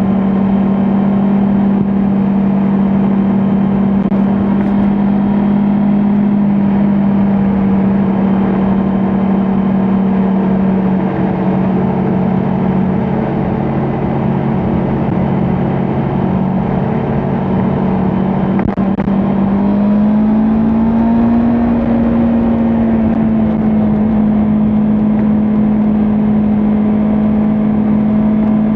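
Kawasaki Ninja 400 parallel-twin engine running steadily at cruising speed on an expressway. Its pitch rises a little about twenty seconds in and then holds.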